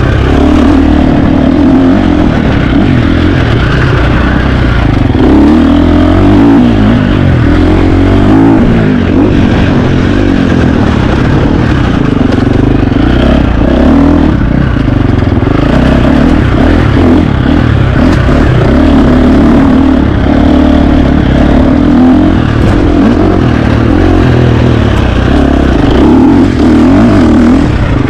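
KTM 350 XC-F four-stroke single-cylinder dirt bike engine running hard, its revs rising and falling again and again without a break.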